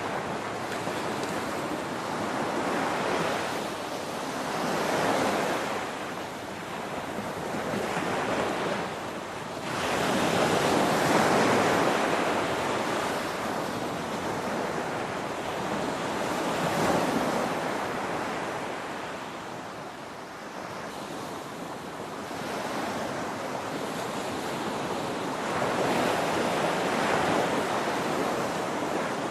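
Ocean waves breaking on a shore in a continuous rush of surf that swells and ebbs every few seconds, with the biggest surge about ten seconds in.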